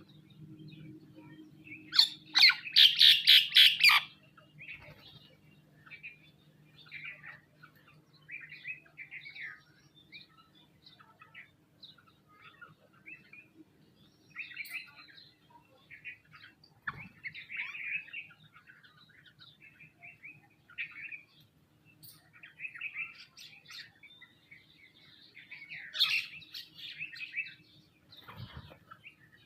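Sparrows and mynas chirping and calling on and off, with a loud run of rapid, harsh repeated notes about two seconds in. A faint steady low hum runs underneath.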